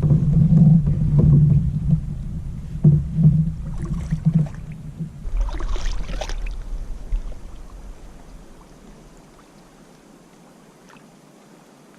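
Low rumbling and knocks of handling on a kayak for about five seconds, then a brief rush of noise near six seconds, after which it fades to a quiet background.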